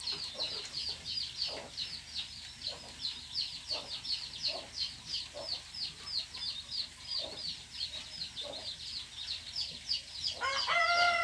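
A small bird chirping rapidly and steadily, short falling chirps at about four or five a second, with a few faint soft knocks.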